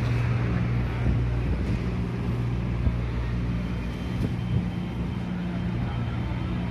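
Tata truck's diesel engine idling steadily.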